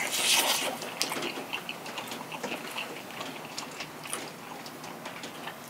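Close-miked chewing of a pan-fried pollock pancake (dongtae-jeon), a bite near the start and then many small wet clicks and crunches, over a steady hiss of rain.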